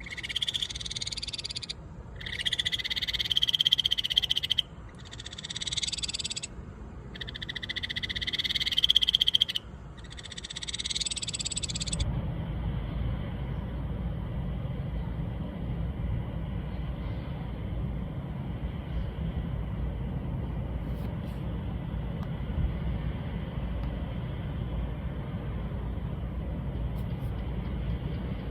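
Ryukyu kajika frog (Buergeria japonica) calling: five calls, each one to two and a half seconds long and growing louder, with short gaps between them. About twelve seconds in the calling stops, leaving a steady low rumble.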